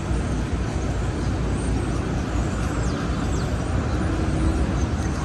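City street traffic: a steady, low rumble of vehicles passing with no sudden events.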